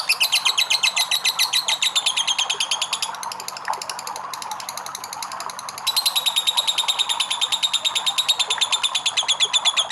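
Lovebird 'ngekek': a long, rapid chattering trill of sharp high notes, about a dozen a second. The trill drops to a fainter run about three seconds in and comes back loud about six seconds in.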